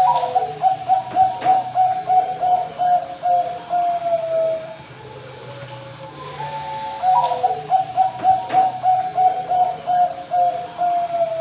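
Zebra dove (perkutut, Bangkok strain) singing: two song phrases, each a rapid run of staccato coos, about three a second, lasting some four seconds and sliding down in pitch on the last note. The second phrase begins about seven seconds in.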